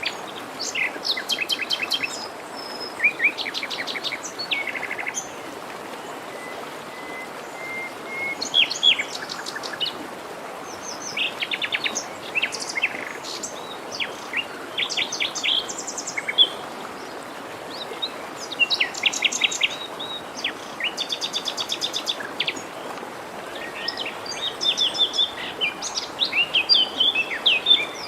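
Several songbirds singing, with rapid trills and chirped phrases in overlapping bursts, over the steady rush of a forest stream.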